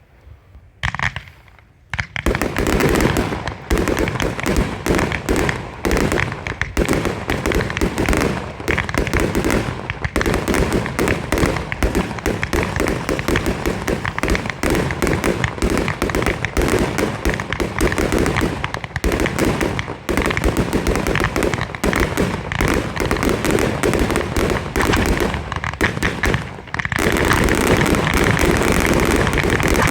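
Fireworks barrage: after a quiet start, shots and bursts fire in rapid, dense succession from about two seconds in. Near the end the reports give way to a steady, even rushing noise.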